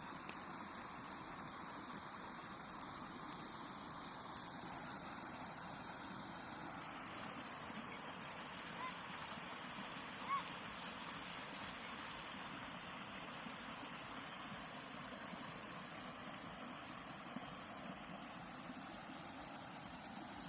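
Steady rushing background noise, with two short honking calls from a farm bird about nine and ten seconds in.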